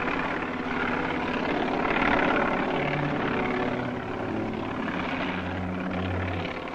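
Helicopter running in flight, a steady engine and rotor noise.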